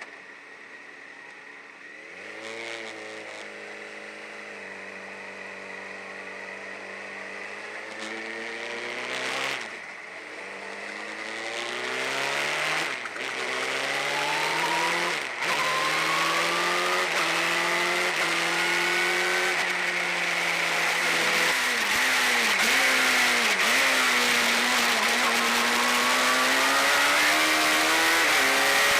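Suzuki Hayabusa inline-four motorcycle engine in a single-seater race car accelerating hard, its pitch climbing and dropping sharply at each upshift, about three times in quick succession. Later it lifts briefly a few times, then holds high revs with a steady high whine.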